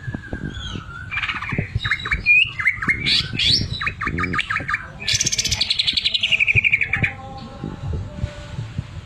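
Greater green leafbird singing a varied run of whistles, chirps and short trills. About five seconds in comes a long, rapid buzzing trill that falls in pitch, the 'sewing machine' (mesin jahit) imitation worked into its song.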